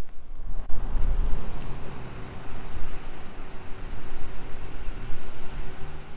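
A car driving past on a street, a steady low rumble of engine and tyres with a faint hum that swells about a second in.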